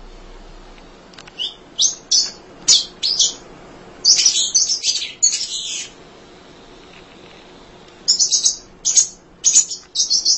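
Munia (emprit) chirping: strings of short, high chirps, with a dense chattering run about four seconds in and another string of chirps near the end.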